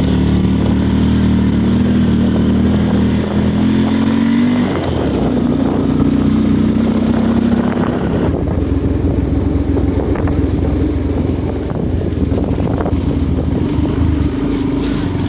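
Motorcycle engine running under way, its note shifting in pitch about five seconds in and again around eight seconds.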